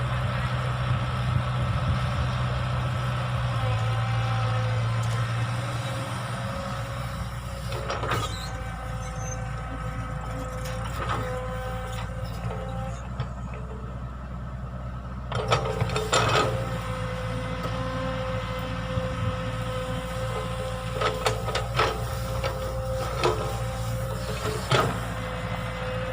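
Excavator engine running steadily with a higher whine over it, and sharp clanks and knocks now and then: a cluster about halfway through and several more near the end.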